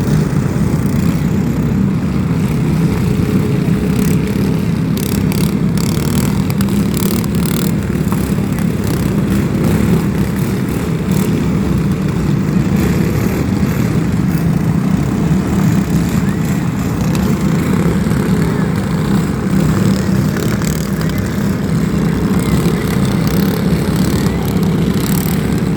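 Racing lawn mower engines running in a loud, steady drone.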